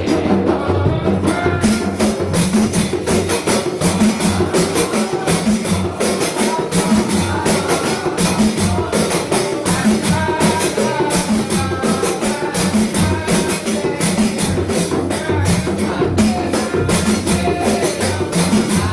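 Javanese terbang frame drums played in a fast, dense interlocking rhythm: deep open bass strokes under sharp, bright slaps, unbroken throughout.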